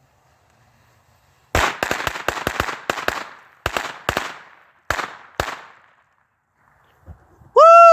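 A string of firecrackers going off: a rapid, irregular run of sharp bangs lasting about four seconds, starting about a second and a half in. Near the end comes a loud, drawn-out pitched cry.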